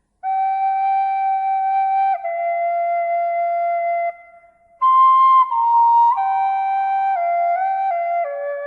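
Slow, calm melody on a flute-like wind instrument: long held notes that step gradually downward in pitch, with a short break about four seconds in.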